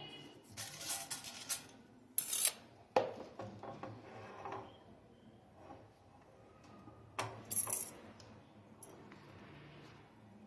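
Metal kitchenware clinking and scraping, a steel cake tin and spoon knocking together on the stove, in several short bursts with sharp clicks.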